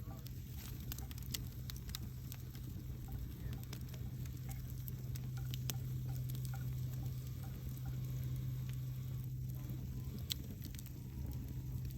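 Wood campfire burning, with irregular sharp crackles and pops over a steady low hum.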